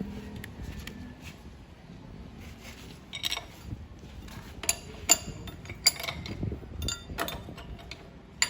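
Irregular sharp metallic clinks and knocks with a short ring, a few at first and more often in the second half, over a low background.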